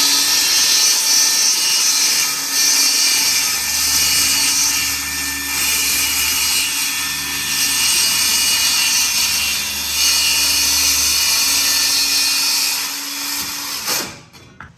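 Electric power tool running steadily under load for about fourteen seconds, then stopping.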